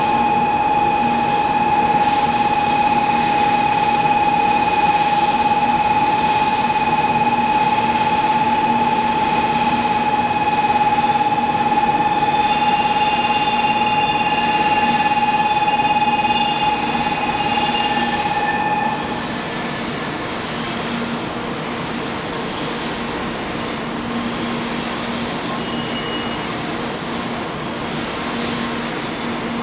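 N700 series Shinkansen train running slowly along the platform as it arrives, with a steady high-pitched whine over its running noise. The whine cuts out about 19 seconds in, leaving a quieter steady hum.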